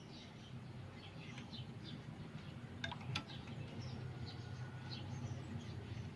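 Faint scattered bird chirps over a low steady hum, with two sharp clicks close together about three seconds in.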